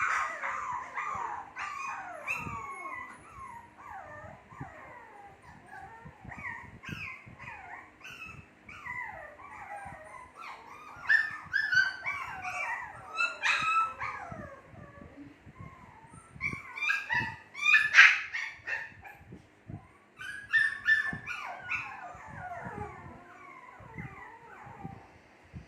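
Two-month-old Shih Tzu puppies whining and yelping: many short, high cries that fall in pitch, coming in louder clusters several times.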